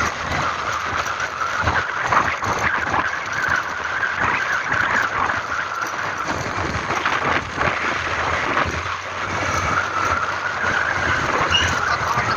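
A vehicle on the move: steady engine and road noise with irregular rattles and jolts.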